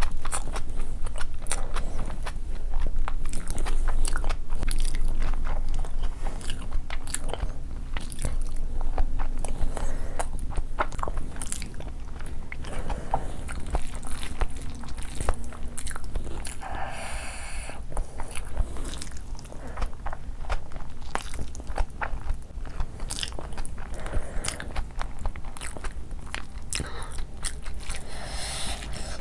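Chewing and mouth sounds of eating a mouthful of fried rice and mutton by hand, with many quick, irregular wet clicks.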